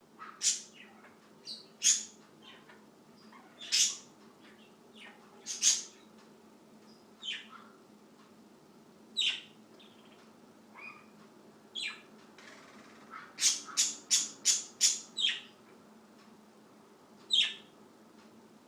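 A bird giving short, sharp chirps at irregular intervals, with a quick run of about six chirps in a row a little past the middle.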